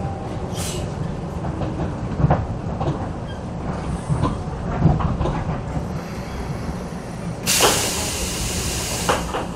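Running sound inside a renewed Keisei 3500-series commuter train car: a steady low rumble of wheels and running gear, with scattered knocks from the wheels over the track. Near the end comes a loud hiss of air lasting about a second and a half.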